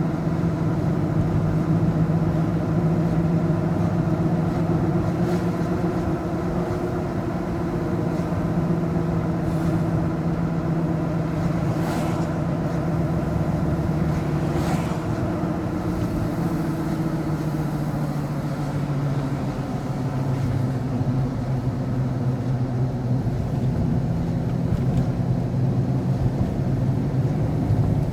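A road vehicle's engine running with road noise while driving. The engine note drops about two-thirds of the way through and rises again near the end.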